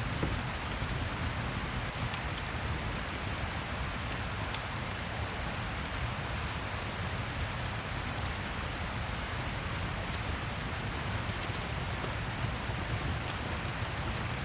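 Steady rain falling, with scattered faint crackles of a wood fire in a fireplace.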